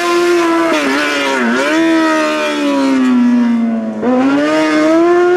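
Rally car engine under hard driving, its pitch dipping briefly, then falling steadily for about two seconds as it comes off the throttle, then climbing sharply again from about four seconds in as it accelerates.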